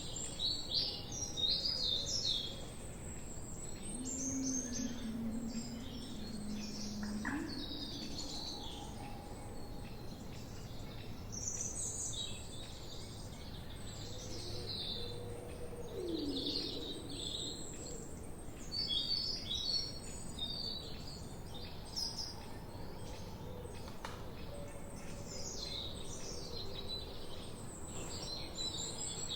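Several songbirds chirping and singing in a forest, in short high-pitched phrases and trills that come and go throughout, over a steady background hiss. A fainter low sound runs from about four to seven seconds in.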